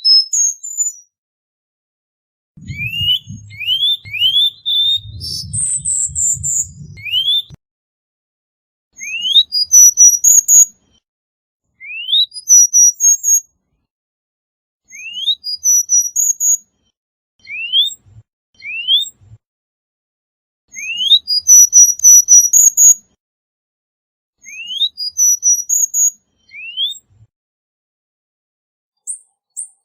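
Cuban bullfinch singing in short bursts: about eight phrases of quick, thin rising whistles mixed with high ticking notes, with silent gaps between them. A low rumble runs under the first two phrases.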